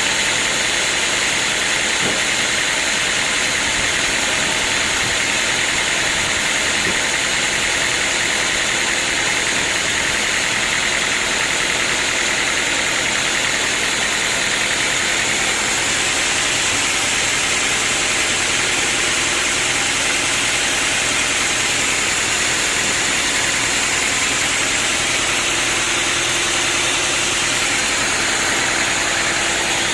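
Sawmill machinery running steadily: a constant, even mechanical noise with a high whine that holds unchanged throughout.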